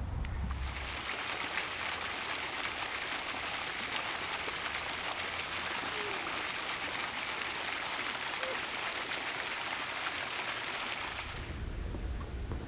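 Steady rush of running water, a dense even hiss that cuts in about half a second in and cuts off near the end.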